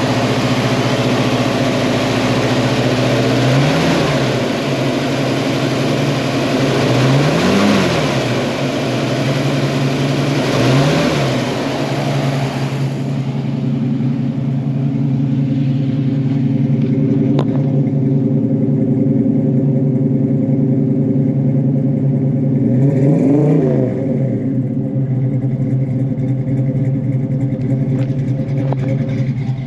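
1964½ Ford Mustang's F-code 260 V8 idling, with four short blips of the throttle that each rise and fall in pitch: about four, eight and eleven seconds in, then once more near twenty-three seconds. The engine sounds healthy and even. A rushing hiss under it cuts off about thirteen seconds in.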